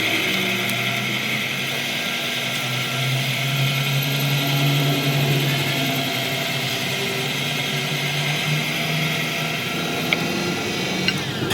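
Workshop machinery running steadily, a constant machine hum with a hissing whir over it and a couple of sharp clicks near the end.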